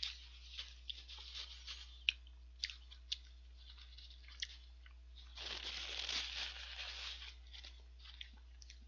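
Mouth sounds of someone chewing a mouthful of hamburger close to the microphone: scattered small clicks and smacks, then about two seconds of rustling noise about halfway through.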